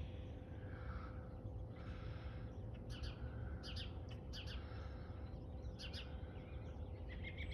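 Wild birds chirping in short, scattered calls, a few bunched together about three to four seconds in and again near six seconds, over a steady low outdoor background rumble.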